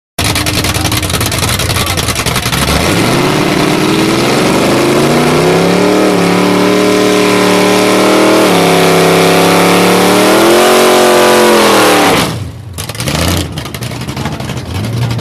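Car engine running loud, revving up about three seconds in, rising in pitch, holding, dipping and climbing again, then dropping away suddenly about twelve seconds in, leaving a quieter low hum.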